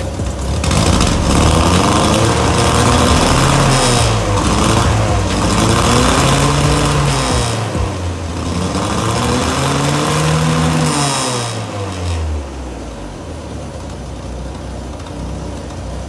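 Peugeot 203's four-cylinder petrol engine revved three times, each rev rising and falling back. After that it settles into a quieter steady run near the end.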